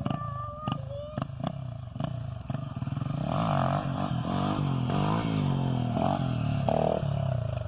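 Honda XR 250 Tornado motorcycle's single-cylinder engine revving, its pitch rising and falling several times from about three seconds in.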